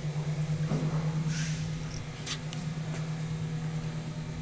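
Dodge Grand Caravan's 3.3-litre V6 idling steadily, a low even hum with a slight regular pulse. A short hiss and a faint click come in the first half.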